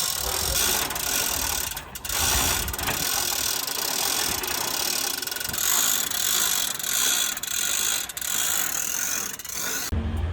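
Hand ratchet hoist clicking in repeated strokes as an engine is lifted from a tree branch. The sound stops suddenly near the end.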